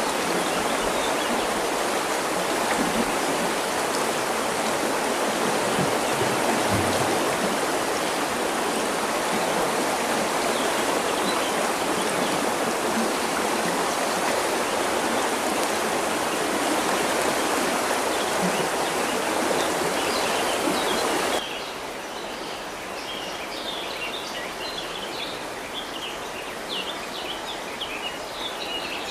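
River water rushing steadily. About three quarters of the way through it cuts suddenly to a quieter flow with small birds chirping over it.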